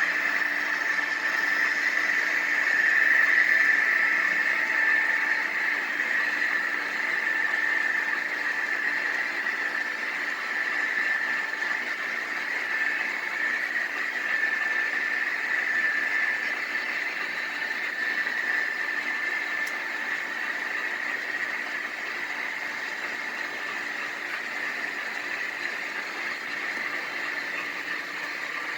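HO-scale model diesel locomotive's engine sound running steadily, growing gradually quieter.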